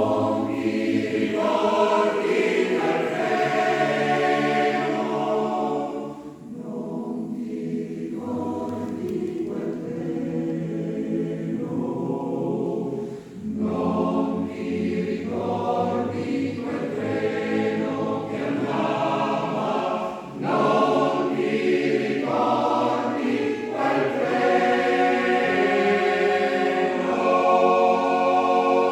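Choir singing a cappella in several parts, in phrases with brief breaths between them.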